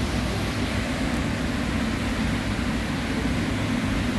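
Rain falling steadily, an even hiss with a deep rumble underneath and no break.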